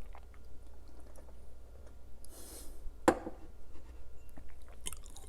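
Sparse quiet mouth clicks from someone eating, a brief hiss a little past two seconds in, and a single sharp knock about three seconds in.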